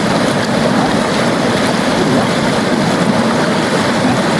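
Steady rushing of flowing river water, an even wash with no distinct splashes.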